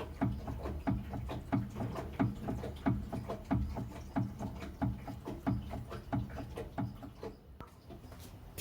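Repeated rattling knocks, about two to three a second, from a car's suspension as the car is rocked: the clatter (kata-kata) of a worn stabilizer link. The knocks die away near the end.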